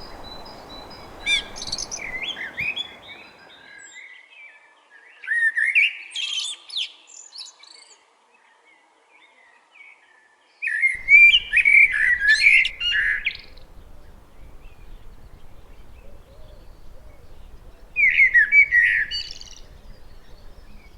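Male Eurasian blackbird singing: four separate song phrases a few seconds apart, each a warbled run of fluty notes that ends in high, thin notes.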